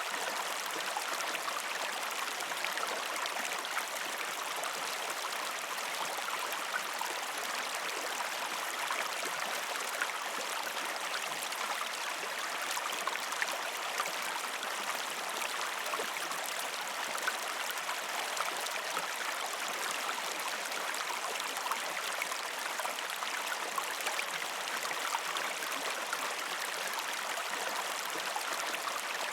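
A shallow river stream flowing and babbling over rocks, a steady rush of water with fine splashes and gurgles throughout.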